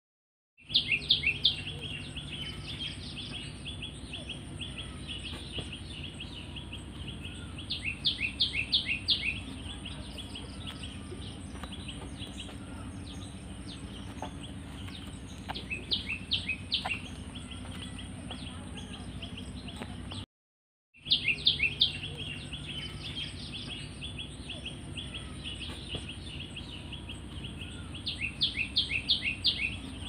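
A small bird singing a short, fast run of high chirping notes five times, every six or seven seconds, over a steady high hiss and a low hum. The sound cuts out completely twice for about half a second.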